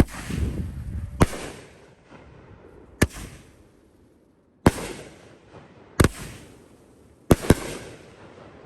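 A 500-gram, 16-shot consumer firework cake firing: seven sharp bangs spaced about one to two seconds apart, the last two in quick succession near the end, each followed by a fading hiss.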